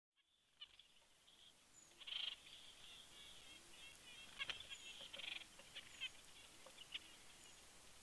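Faint calls of small birds: repeated short high chirps, with two denser chattering bursts about two and five seconds in, and one sharp click near the middle.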